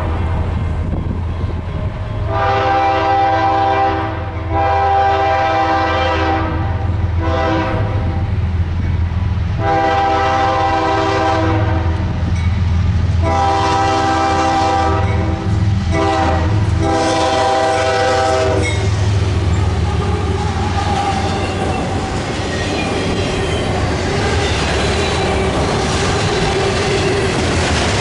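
Freight locomotive's multi-chime air horn sounding a run of long blasts, the later ones in the grade-crossing pattern of long, long, short, long, over the steady rumble of the train. The horn stops about two-thirds of the way through, leaving the rolling noise of the passing freight cars.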